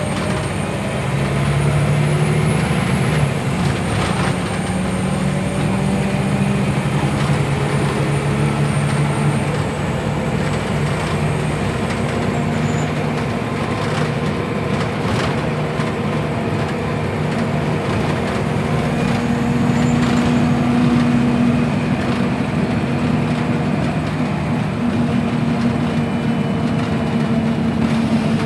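Scania OmniLink city bus's diesel engine running steadily as the bus drives, its pitch shifting with speed and rising for a few seconds past the middle, with a few short knocks and rattles.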